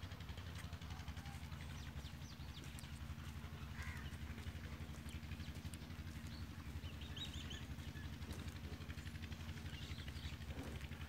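Small birds chirping now and then, clearest about two-thirds of the way in and near the end, over a steady low rumble.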